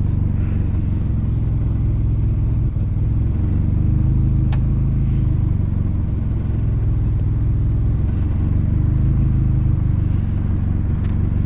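Car engine idling steadily just after catching on a cold start, with the intake open and no air filter fitted; the idle swells and dips slightly. A single light click sounds about four and a half seconds in. The owner suspects stale three-month-old gas and worn-out injectors behind its rough cold running.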